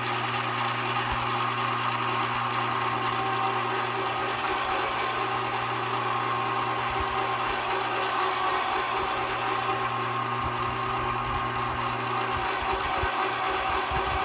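A 1 HP, 1100-watt #22 electric meat grinder running steadily while grinding bacon: a constant motor hum with a higher whine over it. About twelve seconds in, the deep hum drops away and an uneven low rumble takes over.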